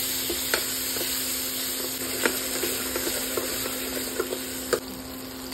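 Chopped tomatoes sizzling in hot oil with whole spices in a stainless-steel kadhai, stirred with a steel ladle that clicks against the pan a few times.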